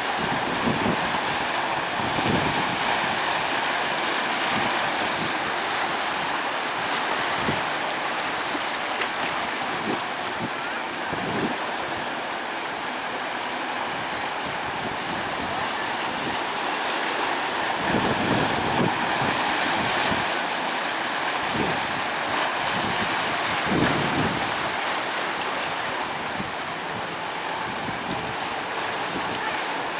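Sea surf washing steadily onto a beach, a continuous rush of waves, with wind buffeting the microphone in occasional low thumps.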